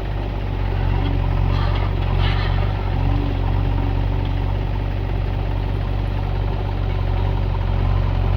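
Heavy-machinery diesel engine running steadily at low speed.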